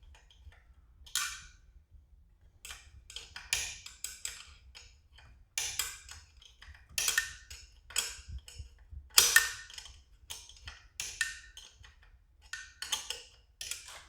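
A 5/16 wrench working a hard-to-reach nut inside a garage door opener's housing, making sharp clicks and clinks at irregular spacing, one or two a second, as the wrench is turned a little at a time and reset on the nut.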